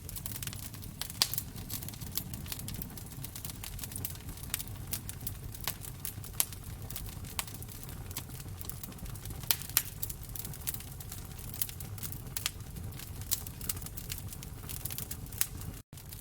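Wood fire in a fireplace crackling, with irregular sharp pops over a steady low rumble of the flames. The sound cuts out for an instant near the end.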